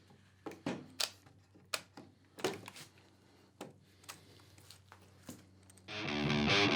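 Scattered light clicks and knocks, about a dozen, over quiet room tone, as a tool is handled and set up. About six seconds in, distorted electric-guitar music starts.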